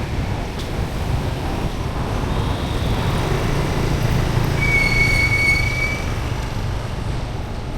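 Steady low rumble of street traffic, with a brief high-pitched squeal that rises over it about five seconds in and fades after about a second and a half.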